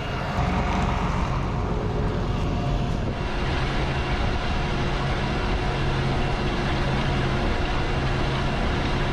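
John Deere 8270R tractor's diesel engine running steadily while pulling a Claydon direct drill, heard from inside the cab, with a low hum that fades in and out from about a third of the way in.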